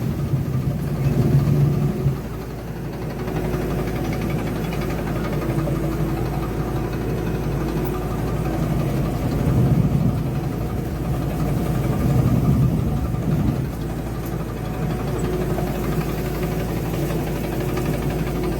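Diesel engine of a Truxor amphibious vegetation-removal machine running steadily, its level swelling briefly a few times as it works.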